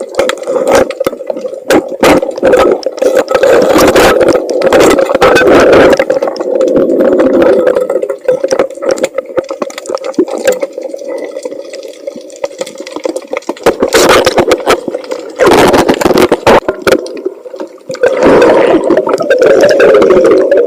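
Sea water splashing and churning around a swimmer, in loud surges with scattered knocks and quieter lulls.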